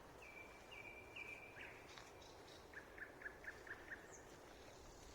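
A songbird singing faintly: three clear whistled notes, then a quick run of about six short, lower notes at roughly five a second, then a single high falling note. The recordist thinks it may be a nightingale but is not sure.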